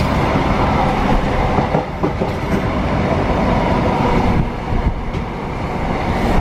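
Passenger train running along the track, heard from inside the carriage by the window: a loud, steady rumble of wheels on rails with a few short clicks from the rail joints.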